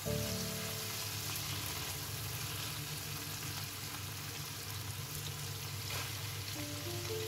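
Chicken hearts and diced vegetables sizzling as they fry in oil in a non-stick pan, stirred with a silicone spatula. Diced potato is tipped into the pan about six seconds in.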